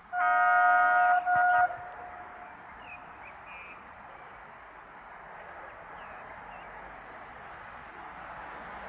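Electric locomotive horn of the Romanian EA class (EA-345) sounding: one blast of about a second and then a short second blast right after it. A faint steady background noise follows.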